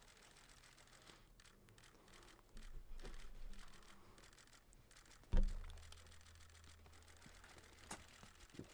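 Quiet room tone with faint handling noises, then a single sharp knock about five seconds in, followed by a low hum that lingers. A few small clicks come near the end.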